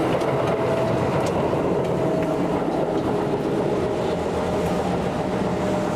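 Kintetsu "Tsudoi" electric train running on the line, heard from on board: a steady rumble of wheels on rail with a faint, steady whine above it.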